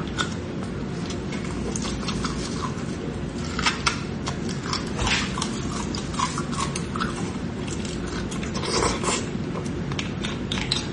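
Close-miked eating sounds: chewing and biting on braised beef bone marrow, with irregular small clicks and wet smacks as a metal spoon scoops marrow out of the bone, over a steady low hum.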